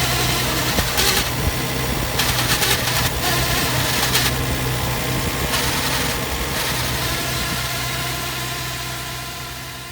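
Nissan 230 Gloria's engine idling steadily, running on a freshly fitted distributor cap meant to cure a noise from the distributor. A few brief louder flickers sound in the first half, and the sound fades out near the end.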